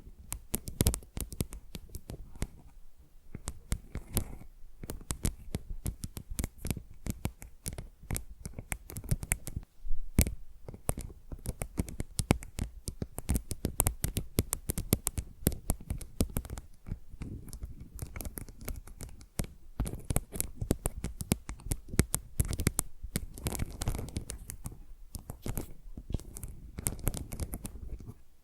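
Fingernails scratching and tapping on a tile in quick, dense strokes, a close-miked run of sharp clicks and rasping scratches, with a few louder taps.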